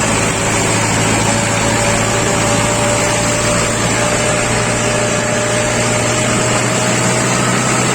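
Mahindra 415 DI tractor's diesel engine running steadily.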